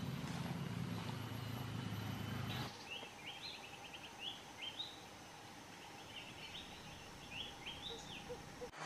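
Faint outdoor background noise, low and even for the first couple of seconds, then a bird singing runs of short, quick rising chirps.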